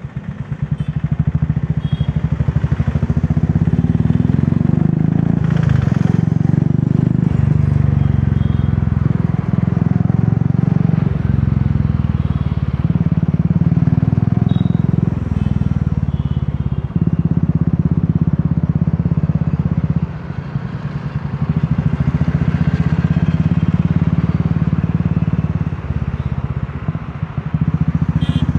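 Royal Enfield Classic 350's single-cylinder engine thumping through an aftermarket Dolphin exhaust at riding speed. The loudness drops briefly and picks up again a few times, near the start, about two-thirds through and near the end, as the throttle eases off and opens.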